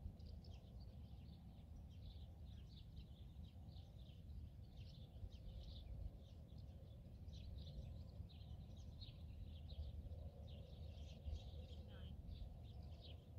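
Faint outdoor ambience: small birds chirping in short, irregular high notes throughout, over a steady low rumble.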